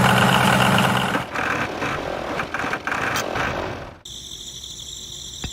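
Small electric motor of a homemade toy tractor running, with a rough whirring rattle of gears. About four seconds in it changes abruptly to a steadier, quieter high-pitched whine.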